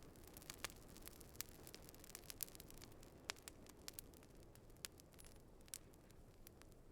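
Campfire crackling: irregular sharp pops and snaps, a few louder than the rest, over a low, steady rumble of the burning fire.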